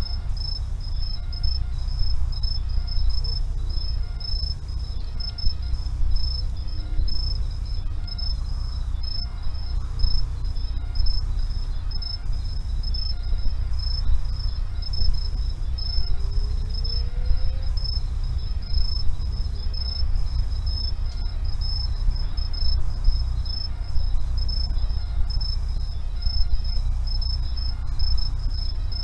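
An insect chirping steadily on one high pitch in rapid, even pulses, over a low steady rumble. A faint rising note comes about two-thirds of the way through.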